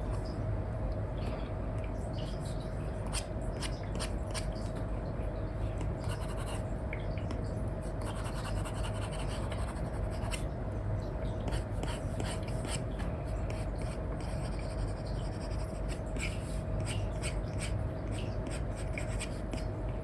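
Apple Pencil with an Elecom nib scratching and tapping on a paper-like matte screen film over an iPad: many short pen strokes in quick succession, over a steady background hiss and a faint steady hum.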